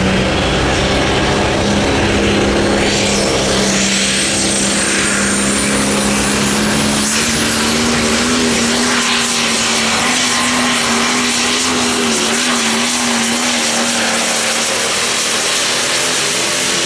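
Light Pro Stock pulling tractor's turbocharged diesel engine running hard at a steady pitch under load, with a turbocharger whine that rises to a high steady whistle about three to four seconds in.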